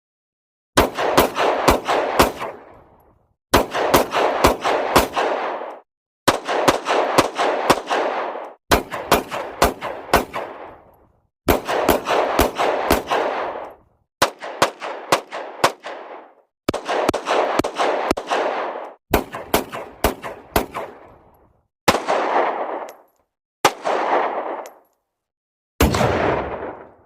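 A string of separate gunfire sound effects: short bursts of automatic fire, each of a few rapid shots ending in an echoing tail, cut apart by short gaps of silence. Toward the end the clips shorten to single or double shots.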